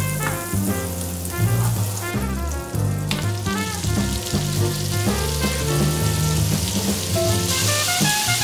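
Butter sizzling in a hot nonstick frying pan, with a sharp sound about three seconds in as diced chicken thigh goes in, and the sizzle growing brighter near the end as the chicken fries. Background music plays throughout.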